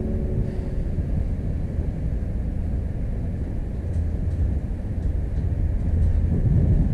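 Steady low rumble of a moving passenger train heard from inside the carriage, with a few faint clicks in the middle. Guitar music fades out in the first second.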